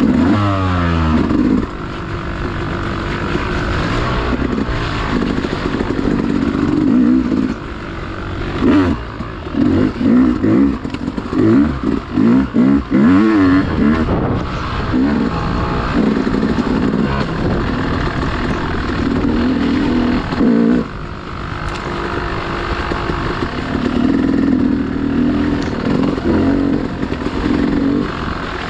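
Dirt bike engine running at low revs, dropping sharply in pitch about a second in, then blipped and revved in short bursts around the middle before settling back to a steady run.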